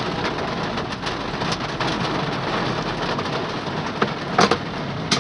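Heavy rain pouring down in a steady hiss, with a couple of sharp taps near the end.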